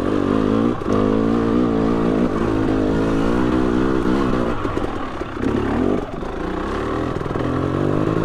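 2020 KTM 300 XC TPI two-stroke dirt bike engine running under throttle, its revs rising and falling as it rides. There are brief throttle-offs about a second in and around six seconds.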